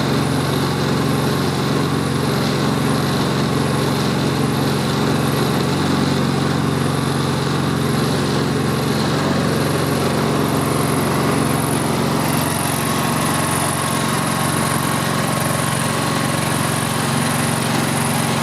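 Engine running steadily at idle, with no change in speed. A faint high hiss pulses about twice a second over it.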